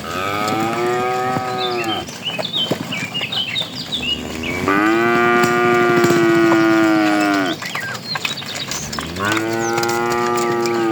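Cattle mooing: three long moos, each held steady and sagging in pitch at the end, with short high chirps between the first and second.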